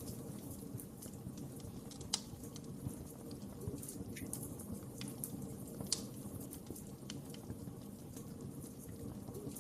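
Wood fire in a fireplace crackling, with a low steady rush of flame and scattered sharp pops, the loudest about two seconds and six seconds in.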